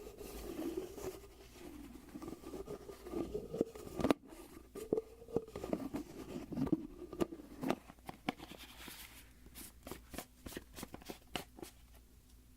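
Plastic bottle handled close to the microphone: a wavering rubbing sound with scattered clicks for the first half, then a run of light taps and clicks.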